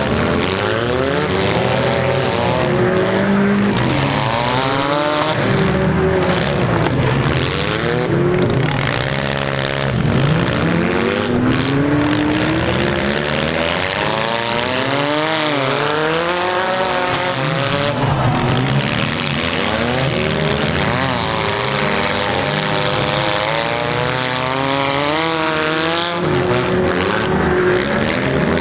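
Several small four-cylinder demolition derby cars' engines revving up and down at once, their overlapping pitches rising and falling continuously.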